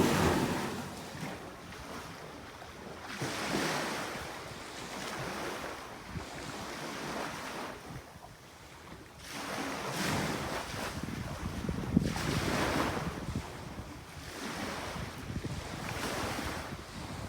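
Small waves washing up onto a sandy beach in repeated surges every few seconds, the wake of a passing boat, with wind buffeting the microphone.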